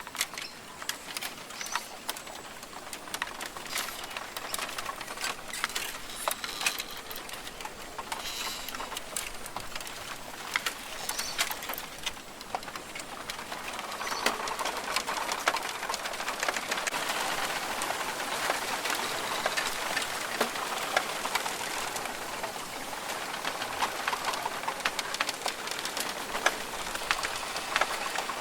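Australian rainforest ambience: birds calling, possibly pigeons cooing, over a scattered patter of sharp ticks and drips. A steady rushing background grows louder about halfway through.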